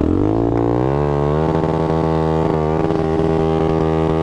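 Small motorcycle engine revving up over about a second and a half, then held steady at high revs.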